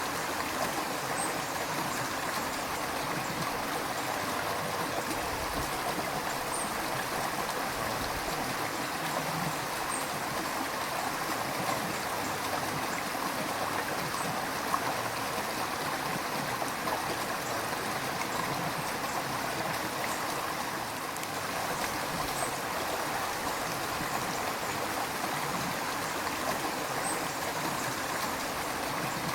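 River water running and splashing over rocks: a steady, even rushing with gurgling.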